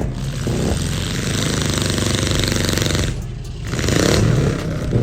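Demolition derby car engines revving hard and unevenly, the pitch rising and falling with the throttle. The sound drops briefly about three seconds in, then picks up again.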